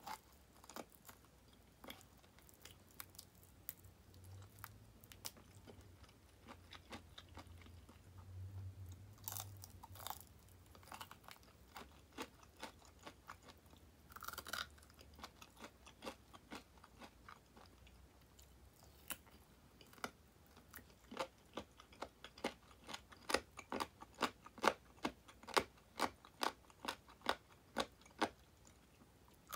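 Close-up crunchy chewing and biting of deep-fried chicken wing 'tulips' (frenched drumettes) with a crisp fried coating. Scattered crackly bites give way, in the last third, to a steady run of louder crunching chews, a couple a second.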